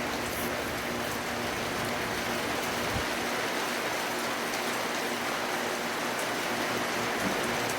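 Rain falling steadily in a storm, an even hiss of drops, with a single low thump about three seconds in.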